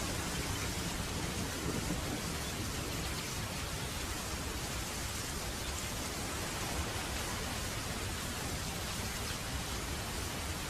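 Heavy rain falling steadily, with a low rumble of distant thunder underneath.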